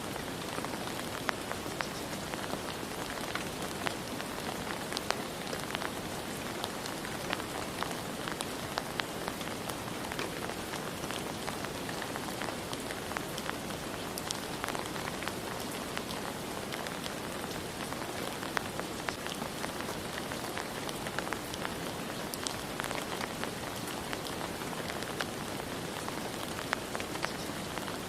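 Steady rain falling, an even hiss with many individual drops ticking sharply throughout.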